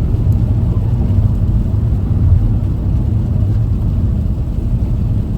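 Steady low rumble of road and engine noise inside a car's cabin while driving at about 105 km/h on a snowy highway.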